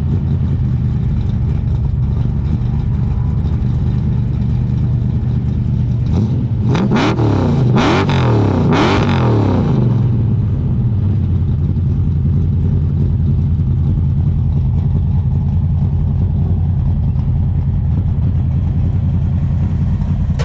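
The Dodge Charger's engine running through freshly fitted Porter mufflers. It idles steadily, is blipped several times in quick succession about six to ten seconds in, and then settles back to idle.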